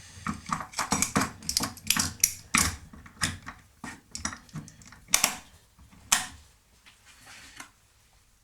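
Irregular clacks and knocks of tools and metal parts being handled and set down on a workbench, busiest at first, with two louder knocks after about five seconds, then dying away.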